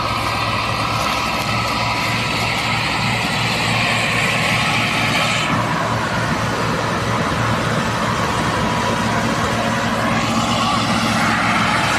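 Tractor diesel engine running steadily with an even low pulse, as when pulling a loaded trolley. A high hissing noise sounds over it until about halfway through, then drops away and comes back near the end.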